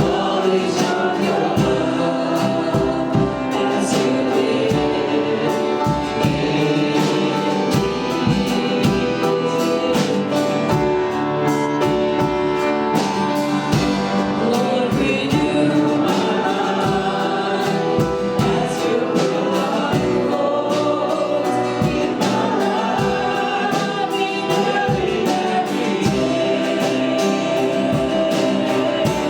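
Live worship music: voices singing together over a band, with a steady beat.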